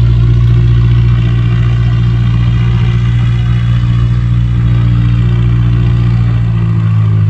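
An engine running steadily with a loud low hum. Near the end the deepest part of the hum drops away and the pitch shifts slightly.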